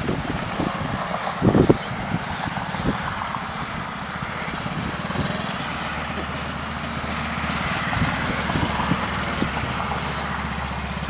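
Small motorcycle engine running steadily as a child rides it.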